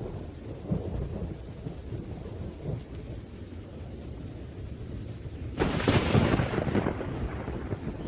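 Thunderstorm with rain: low rolling thunder rumbles steadily, then a louder, sharper thunderclap breaks about five and a half seconds in and rumbles on for about two seconds.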